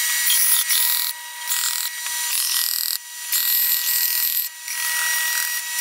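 Belt sander running with a steady high whine, a piece of wood pressed against the belt several times to sand a chamfer, the sanding hiss rising and dropping with each pass.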